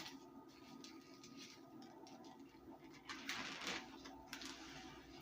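Faint rustling and crinkling of wrapping being handled and opened, with a sharp click at the start and a couple of brief rustles a little after the middle.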